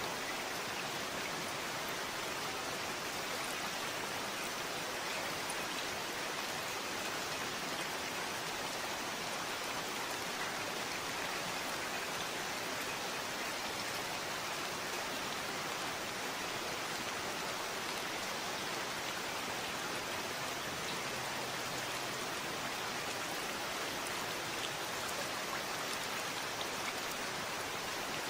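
Steady, constant rainfall, an even hiss of drops with no thunder or other sounds.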